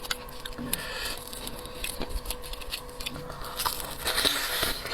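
Close-miked eating of seafood: a run of small clicks and crackles from chewing and working at shellfish, with a longer hissing noise about four seconds in.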